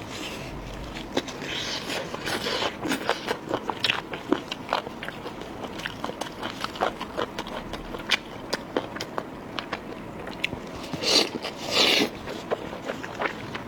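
Close-miked eating: a person biting and chewing food, with a run of irregular wet clicks and crunches, and two louder bites about eleven and twelve seconds in.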